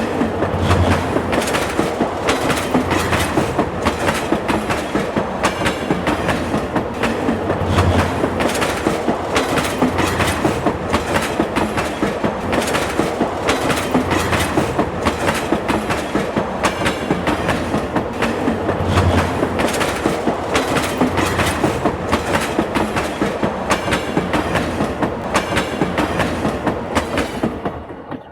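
Train passing with a steady clickety-clack of wheels over rail joints, the clicks coming in quick regular pairs. It fades out at the very end.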